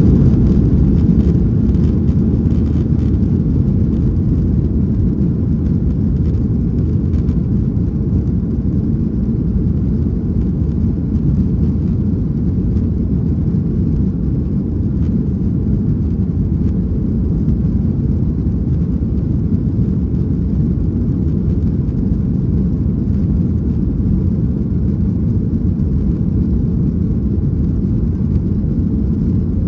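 Boeing 737-800's CFM56-7B jet engines at takeoff power, heard from inside the passenger cabin as a loud, steady low rumble during the takeoff.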